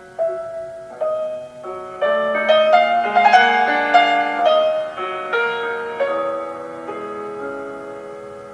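Classical solo piano music, a flowing melody whose notes build in a short passage a few seconds in, then thin out and fade into long, decaying held notes.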